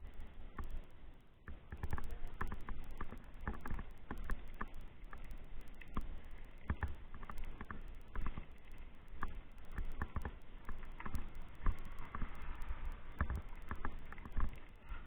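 Irregular knocks, clicks and rattles, several a second, over a low rumble.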